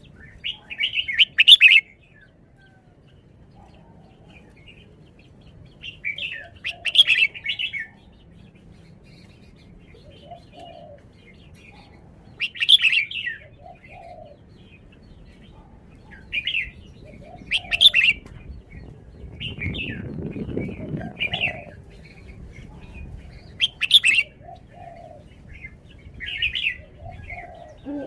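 Red-whiskered bulbul singing short, loud bursts of song every few seconds, with softer lower notes between phrases. There is a low rustle about two-thirds of the way through.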